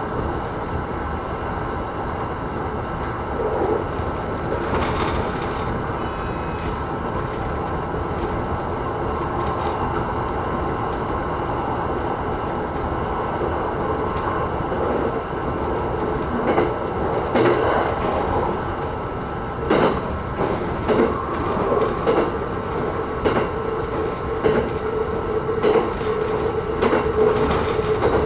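E129-series electric multiple unit running at speed, heard from inside the front car: a steady rumble of wheels on rail, with sharp wheel clicks over rail joints coming thicker in the second half and a steady hum growing stronger near the end.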